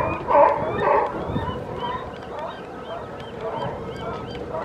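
Seagulls calling: a few loud, harsh calls in the first second, then many quicker, fainter, higher calls.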